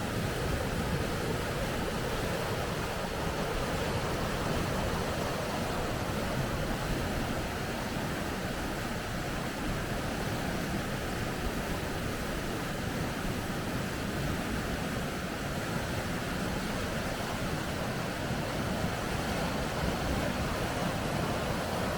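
Rapids: water rushing steadily over rocks.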